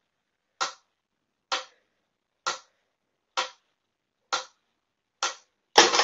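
Mechanical pyramid metronome ticking steadily, a sharp click a little under once a second. A louder, noisier sound cuts in just at the end.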